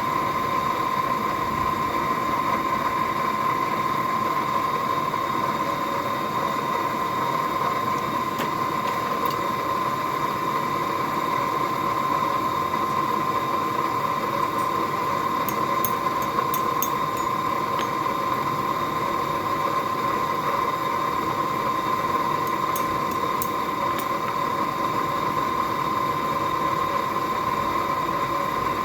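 A blacksmith's forge running steadily: a constant hum and noise with a high, even whine, with a few faint ticks in the middle and no hammer blows.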